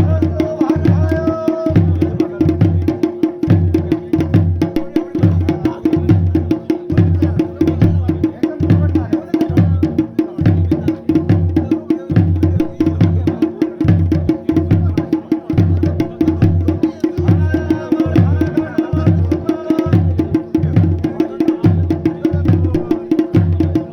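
Traditional Garhwali dhol-damau drumming for Pandav Nritya, beating a fast, steady, unbroken rhythm. Brief higher tones sound over the drums near the start and again past the middle.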